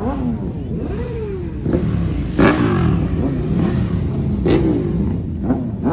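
Vehicle engines revving over and over, their pitch rising and falling in overlapping sweeps, with two louder surges: one a little before midway and one about a second and a half before the end.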